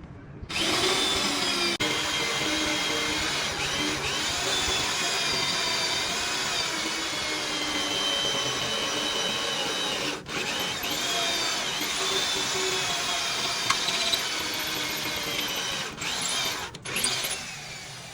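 A handheld electric power tool running under load, its whine dipping and recovering in pitch, with a short break about ten seconds in and a couple more near the end.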